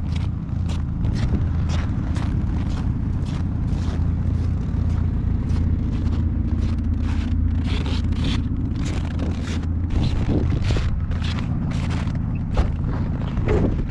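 A vehicle's engine running steadily while driving over a rough track, with frequent short knocks and rattles.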